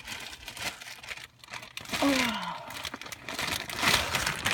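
Crinkling and rustling of material being handled, with a short falling tone about two seconds in and a sharp knock at the very end.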